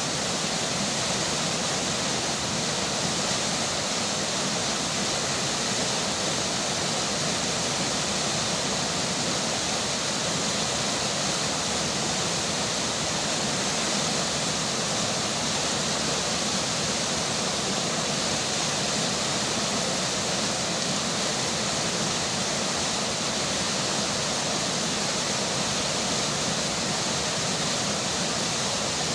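River water flowing steadily, mixed with falling rain, as an even, unbroken noise.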